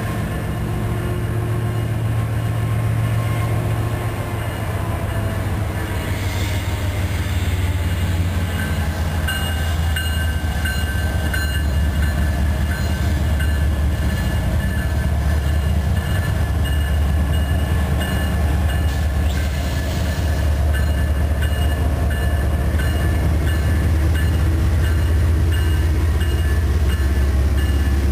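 Union Pacific diesel-electric locomotive leading an intermodal freight train, its engine drone growing slowly louder as it approaches and draws alongside, with steel wheels running on the rails. Thin high-pitched wheel squeal comes in about a third of the way through.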